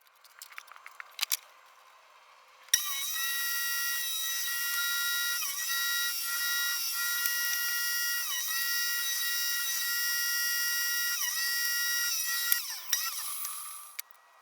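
Homemade table saw's circular-saw motor, a Makita M585, switching on with a high whine. Its pitch sags briefly about four times, as if under the load of cuts, before it winds down near the end. A few clicks come before it starts.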